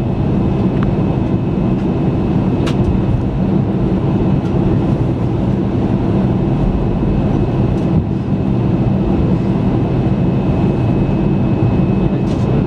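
Airbus A320 cabin noise while taxiing after landing: a steady low hum from the engines at idle, with a thin, steady high-pitched whine over it. A few faint clicks.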